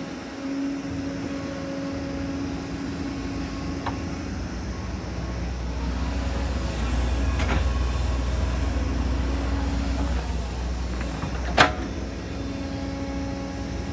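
Hydraulic excavator's diesel engine running, working harder for several seconds in the middle, with a steady hydraulic whine that comes and goes. A few sharp metal knocks from the machine, the loudest near the end.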